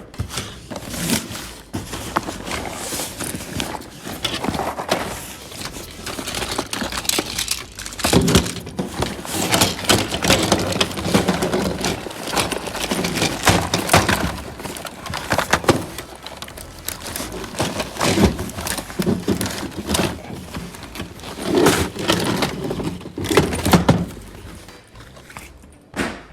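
Hard objects clattering, knocking and rattling as they are handled, set down and moved about, with irregular knocks and a few louder thunks.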